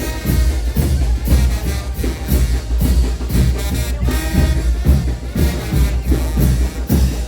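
Trumpets playing a son de chinelo over drums that keep a steady, driving beat.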